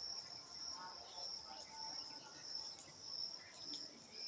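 Insects chirping in a steady high trill that swells in regular pulses about one and a half times a second, with faint short whistles lower down in the background.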